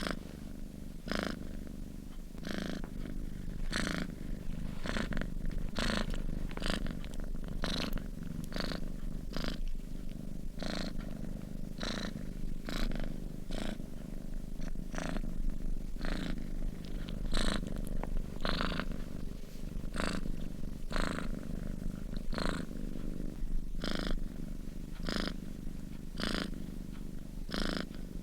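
Domestic cat purring steadily while asleep, a low rumble with a breathy pulse at each breath, about once a second.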